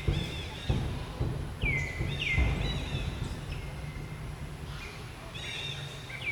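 High, chirping animal calls that slide down in pitch, repeated several times, over background noise with a few low bumps.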